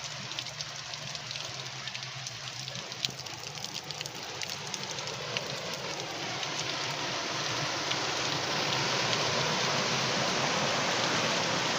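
Storm rain and floodwater: a steady rushing hiss with scattered drop-like clicks, growing louder over the last several seconds.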